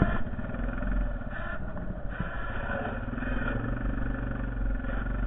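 Honda Foreman TRX450ES ATV's single-cylinder engine running steadily, with a brief knock right at the start.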